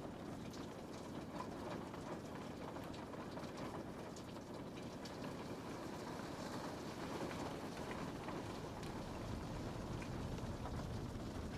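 Steady rain falling on a window pane, with scattered light drop ticks over an even hiss. A low rumble swells in near the end.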